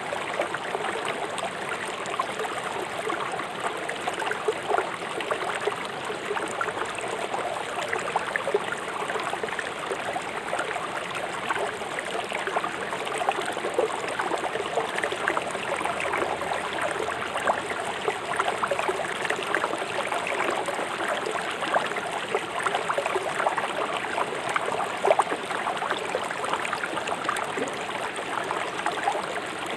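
River water flowing fast over stones in a shallow, rocky bed: a steady rushing wash dense with small splashes.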